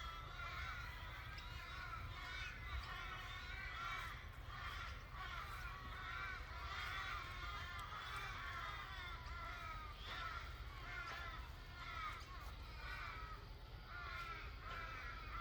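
A flock of birds calling all at once, a continuous dense chatter of short overlapping calls with a low steady rumble beneath.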